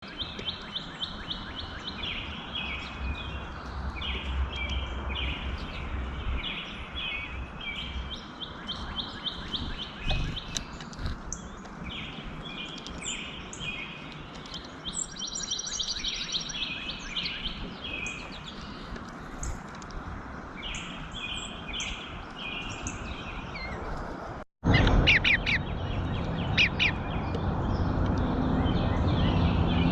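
Birds chirping and calling in quick runs of short, repeated notes over a steady background hiss. About 24 seconds in the sound cuts out for an instant, and after that the background is louder and the calls are sharper and different.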